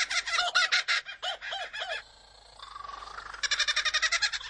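Superb lyrebird singing its mimicked song, a fast run of repeated high notes. About a second in come a few arched notes, then a short lull with a rising glide, and the rapid notes start again.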